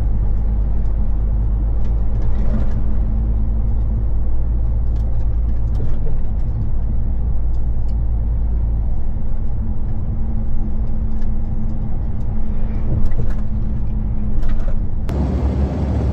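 Heavy truck cruising on the motorway: a steady low engine drone with road noise, heard inside the cab. The drone changes abruptly about 15 seconds in.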